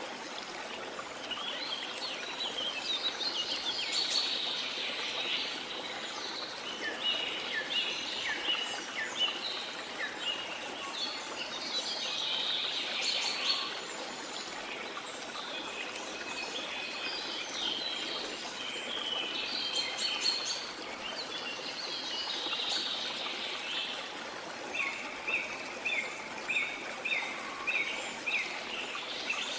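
Rainforest ambience: a steady rush of falling and running water under a chorus of many birds chirping and singing, with a quick series of repeated notes from one bird near the end.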